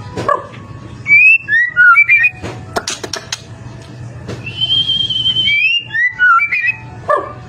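White-rumped shama (murai batu) singing loudly: quick whistled notes sliding up and down, a burst of sharp clicking notes about three seconds in, then a long held high whistle and more quick whistles near the end.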